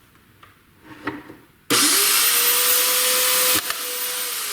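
Small electric metal-cutting band saw switched on after a couple of faint knocks: its motor and blade start suddenly, run up to a steady high whine, then become softer about two seconds later with the pitch beginning to fall near the end.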